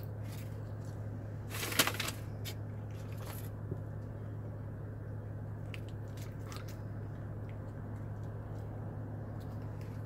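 Mouth sounds of someone chewing a burger, with a cluster of crunchy clicks about two seconds in and a few fainter ones later, over a steady low hum.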